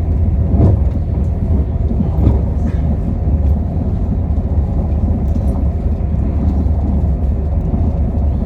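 Passenger train running along the line, heard from on board: a steady low rumble, with a couple of faint knocks in the first few seconds.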